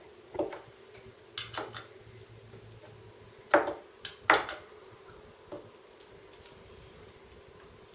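Allen keys clinking on a scooter's rear axle bolts while the axle is loosened and taken out: about six sharp metal clicks, the two loudest about three and a half and four and a quarter seconds in.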